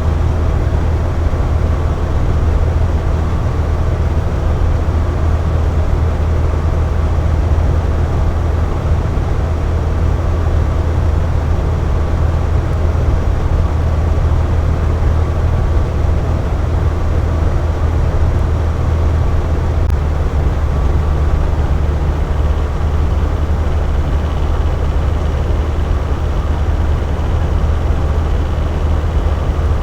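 Electric box fan running steadily: a constant low whoosh of moving air with a faint motor hum.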